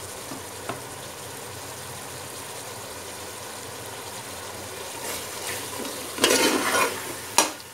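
Sliced onions and carrots frying in oil and sauce in a metal pot with a steady sizzle. Near the end a spatula stirs and scrapes through them, louder, followed by a single sharp knock.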